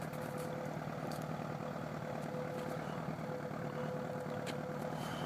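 1967 Cessna 150's Continental O-200 four-cylinder engine idling steadily.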